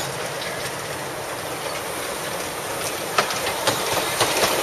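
Small amusement-park train rolling past at close range on narrow-gauge track, with a steady running rumble and sharp wheel clicks over the rail joints starting about three seconds in.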